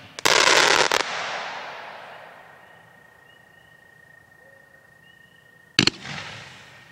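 Jake's Fireworks 'Wall of Fire' consumer cake firing: a dense crackling burst in the first second that fades away over about two seconds. A single sharp bang about six seconds in, followed by a short fading hiss as the next shot breaks.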